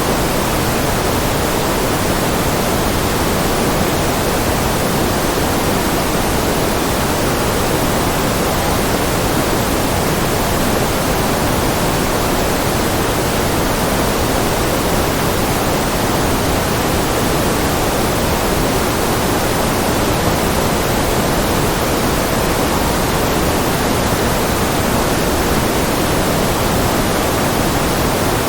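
Steady electronic noise of a white-noise track: an even, unchanging hiss spread across all pitches, with no rhythm or breaks.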